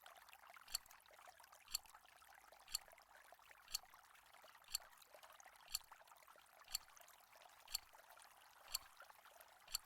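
Quiz countdown timer ticking once a second, ten short sharp ticks at an even pace over a faint steady hiss.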